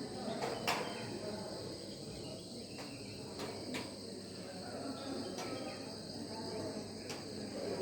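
Insects chirring in a steady high-pitched drone, with a few sharp clicks scattered through and faint short bird calls.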